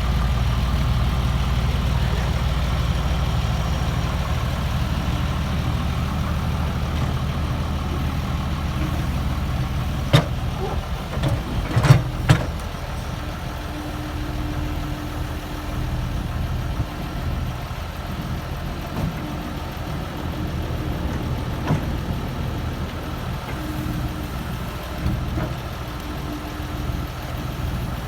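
Komatsu PC70-8 excavator's diesel engine running steadily, louder for about the first ten seconds and then settling lower. About ten seconds in come three sharp metal clanks within a couple of seconds.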